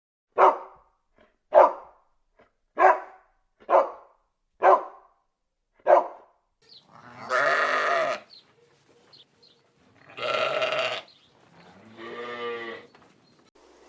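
Animal calls: six short, sharp calls about a second apart, then three longer, wavering calls about two seconds apart.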